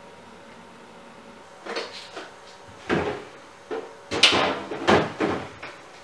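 A run of several short knocks and clunks, like household things being handled, beginning nearly two seconds in.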